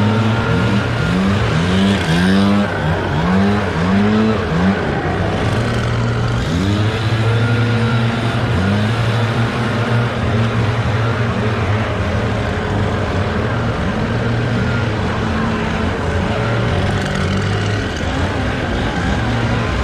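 Gas engines of leaf-cleanup equipment running steadily, with repeated brief rises in pitch as they rev up and down, most often in the first few seconds.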